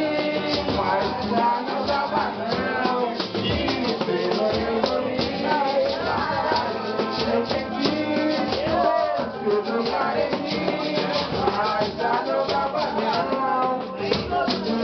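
Live pagode music: voices singing a melody over a shaker rattling in a quick, steady rhythm, with plucked strings underneath.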